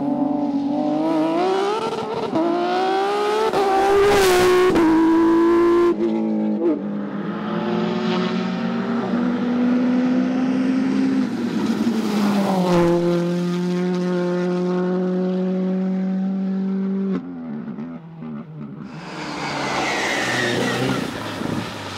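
Rally car engines under hard acceleration, the note climbing in pitch and dropping back at each gear change, with several passes cut one after another. Near the end the engine note gives way to a loud rushing hiss.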